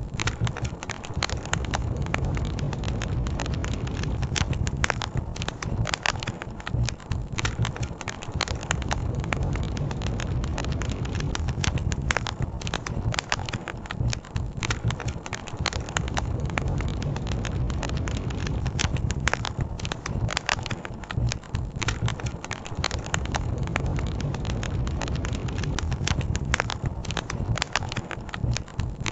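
Wood campfire crackling, with many sharp irregular pops and snaps, over a steady low rush of flowing river water.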